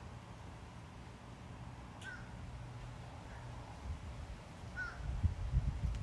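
A crow calling in the distance: two short caws a couple of seconds apart, over a low rumble on the microphone that swells in bursts near the end.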